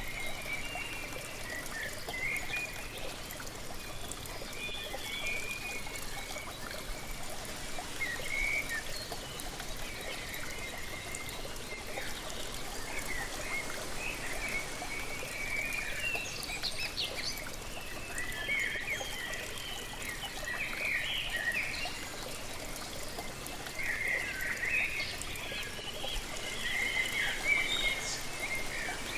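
Waterfall rushing steadily, with birds chirping and calling over it, the calls busiest in the second half.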